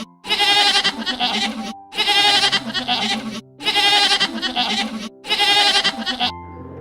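Goat bleating four times in a row, each call about a second and a half long with a quavering tremble, over a steady background music bed. The bleats stop near the end, leaving the music.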